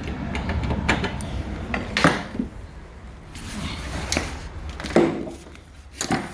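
A few sharp metallic clanks and knocks, with a noisy rustle between them, over a steady low rumble.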